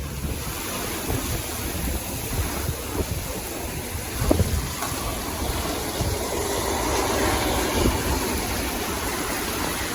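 Steady rush of strong wind and heavy rain from a severe thunderstorm line, with a sharper tap about four seconds in.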